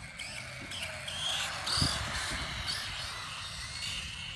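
Electric RC truck (Dromida 1/18-scale desert truck) running on pavement: a high motor whine over tyre hiss. It grows louder about a second in and fades away near the end.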